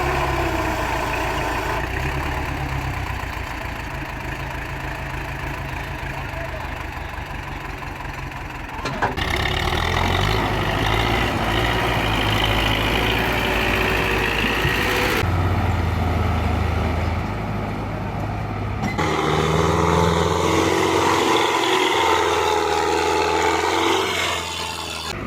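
Belarus MTZ-50 tractor's four-cylinder diesel engine running hard, heard in several short stretches that change abruptly, about 9, 15 and 19 seconds in.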